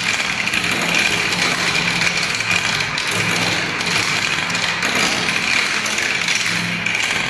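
Marbles rolling down a spiral marble-run ramp, a steady dense rolling rattle with no pauses.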